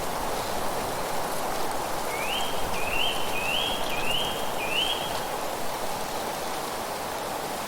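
Steady rushing of wind through leaves, with a bird calling a run of five quick rising notes from about two seconds in to about five seconds in.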